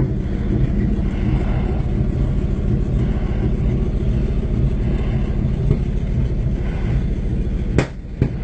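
Tow truck's engine idling steadily with a low rumble; the owner has said the truck is loud and its muffler needs fixing. Near the end a sharp click is followed by a brief drop in level.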